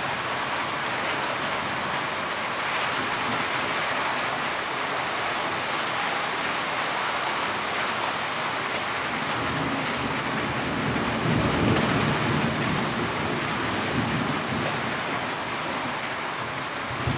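Heavy rain falling steadily, an even hiss of drops. A low rumble swells and fades about halfway through.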